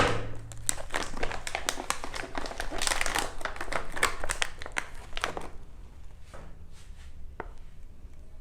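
Packaging crinkling and rustling as it is handled, busy for about five seconds and then sparser, with a few soft clicks.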